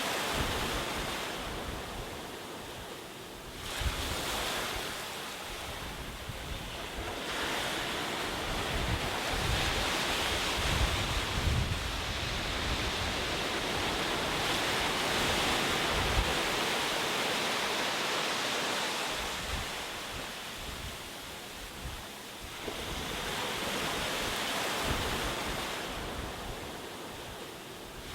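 Ocean surf: waves breaking and washing ashore, the rush of water swelling and fading in long surges several seconds apart, with a gusty low rumble underneath.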